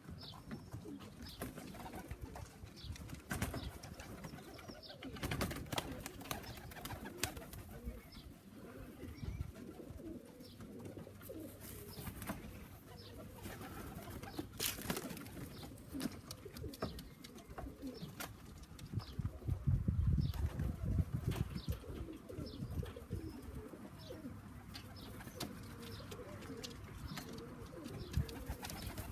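Young racing pigeons cooing around the loft, with scattered short clicks and knocks throughout and a louder low rumble about two-thirds of the way through.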